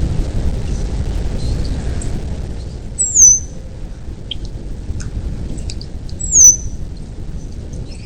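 Birds calling: two loud, high, down-slurred whistled calls about three seconds apart, with scattered short chirps in between, over a steady low rumble.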